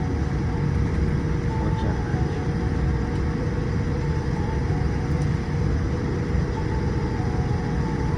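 Steady low rumble of cabin noise aboard a Boeing 787-8, with a thin steady whine running through it.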